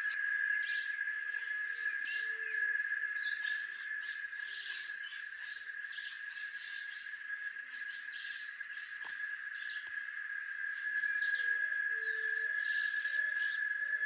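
Outdoor wildlife chorus: insects hold one steady high drone throughout, with scattered bird chirps above it and a series of short, low, arching calls from another animal near the end.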